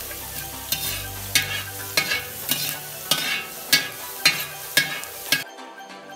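Crushed garlic sizzling in hot coconut oil in a brass uruli, stirred with a perforated metal ladle that scrapes against the pan about twice a second. This is the garlic being fried until it loses its raw smell. The sound cuts off near the end.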